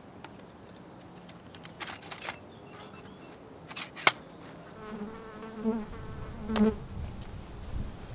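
An insect buzzing close by, a wavering pitched drone that comes and goes over a couple of seconds, with a few sharp clicks before it.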